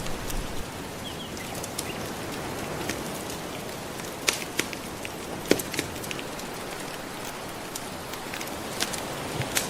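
Gentle ocean waves washing as a steady hiss, under a crackling wood fire: scattered sharp pops and snaps, with a few louder ones around the middle.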